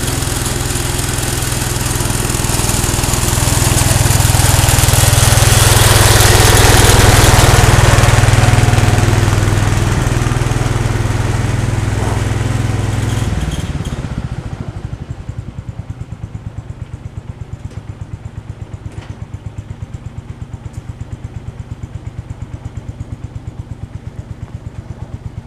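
Cub Cadet 149 garden tractor's single-cylinder engine running fast, swelling louder for a few seconds. About halfway through it drops to idle, with even, separate putts.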